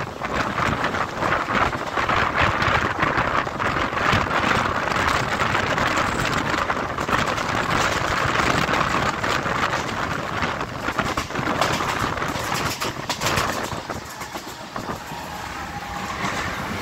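Passenger train running at speed, heard from inside the coach by an open window or door: a steady rush of wind and wheel-on-rail noise dense with rattling clicks, easing off a little near the end.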